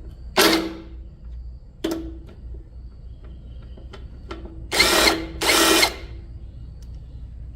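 A power tool run in short bursts on the motorcycle: a short burst near the start, another about two seconds in, then two of about half a second each close together around five seconds in.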